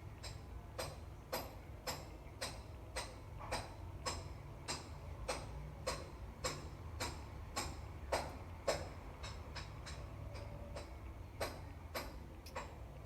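Regular sharp taps or knocks, about two a second, quickening briefly about two-thirds of the way through, over a low steady hum.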